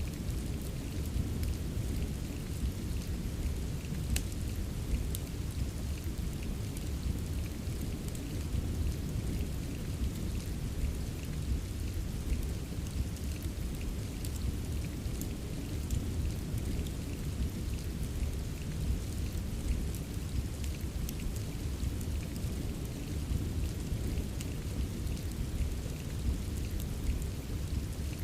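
Steady rain ambience with a deep, constant rumble underneath. Sparse small sharp crackles are scattered through it, like a fireplace's crackling mixed with the rain.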